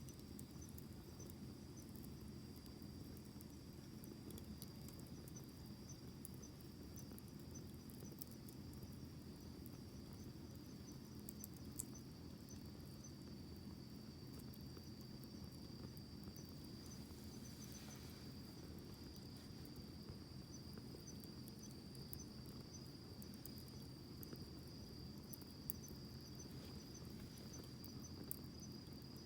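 Wood campfire burning quietly: a soft steady rumble with sparse sharp crackles and pops. A steady high insect trill, crickets, runs under it.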